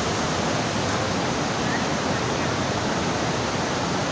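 Kosi river in flood after days of heavy rain, its swollen water rushing with a steady, dense noise.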